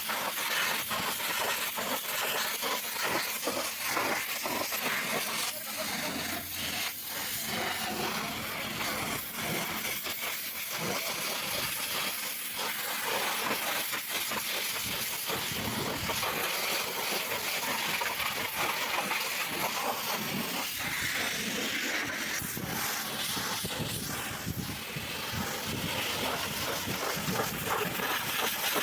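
High-pressure washer spray hissing steadily against a truck engine, with a constant spraying noise that flickers as the jet moves.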